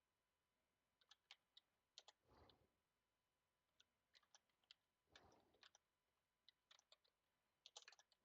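Faint computer keyboard typing: irregular clusters of quick key clicks, with two soft swells of noise about two and five seconds in.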